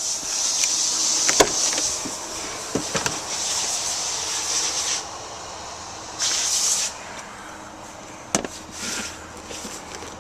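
Rustling and handling noise for about five seconds, broken by a few sharp clicks and knocks, then a short burst of rustling a little past six seconds and another click near the end.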